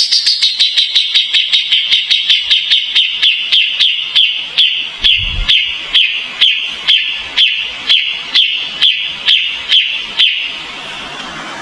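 A kapas tembak songbird repeating one sharp, slightly falling note about two and a half times a second, stopping about ten seconds in. A brief low thump comes about halfway through.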